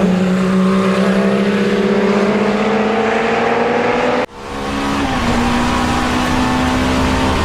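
BMW E30 M3 race car engine pulling at full throttle, its note climbing steadily, then a sharp ignition cut about four seconds in as it upshifts through its straight-cut, non-synchronised racing gearbox. It picks up again at lower revs and keeps pulling.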